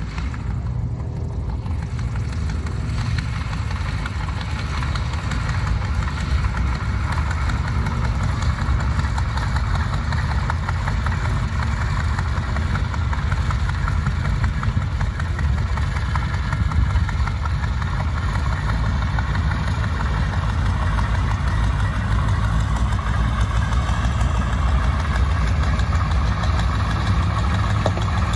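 Boeing Stearman biplane's radial engine running steadily, growing gradually louder.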